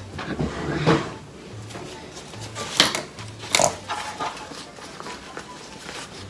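A few sharp knocks and clatters of kitchen handling: one about a second in, then two more near three and three and a half seconds in, with quieter taps between.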